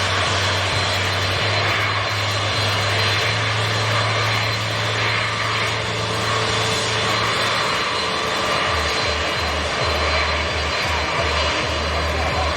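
Airbus A350's twin Rolls-Royce Trent XWB turbofan engines under thrust on take-off, a steady, loud rush of jet noise.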